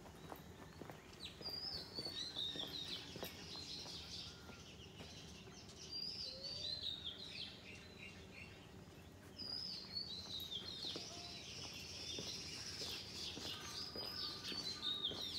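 Birds chirping, in bouts of quick, high chirps that fall in pitch, every few seconds over faint background noise.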